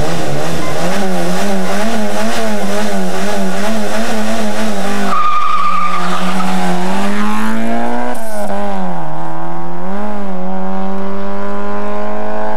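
Rally car engine held at high revs on the start line, the revs wavering quickly up and down as the throttle is blipped. About five seconds in, the sound changes abruptly to a car engine accelerating hard, its pitch climbing with dips at the gear changes.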